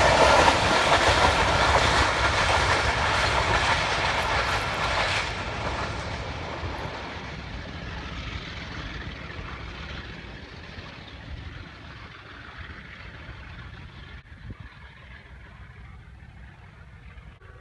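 Passenger train's coaches rumbling and clattering over the rails of a bridge, the sound fading steadily as the train moves away.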